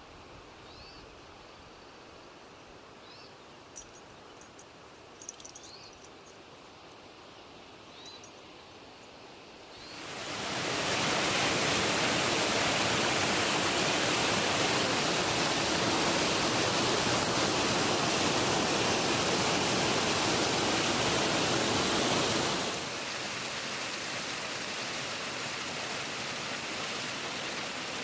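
Quiet trail ambience with a few short bird chirps. About ten seconds in, a loud, steady rush of falling water fades up. Near the end it drops to a lower but still steady rush.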